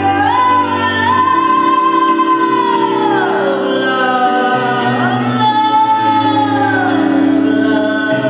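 Woman singing a long drawn-out note that rises, holds and slides down, then a second sustained phrase that rises and falls again, over steady low accompaniment.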